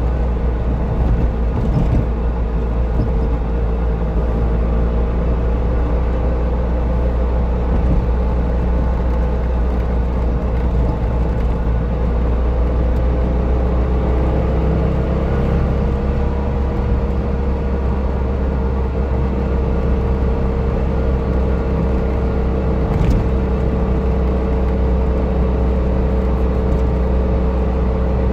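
Trabant 601's two-cylinder two-stroke engine under way, heard from inside the cabin as a steady low drone with road rumble. The engine note rises slightly about halfway through, and there is one brief click near the end.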